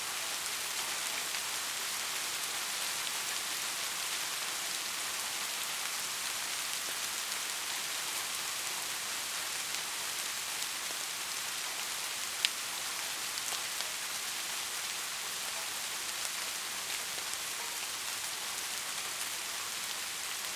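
Steady rain, an even hiss dotted with the ticks of single drops, with one sharp, louder drip about twelve seconds in.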